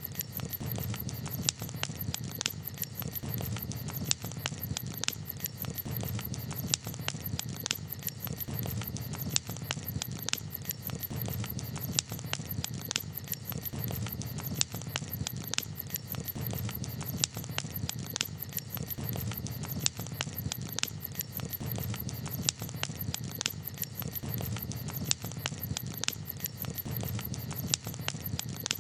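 Wood campfire crackling, with frequent sharp, irregular pops and snaps over a steady low background of burning.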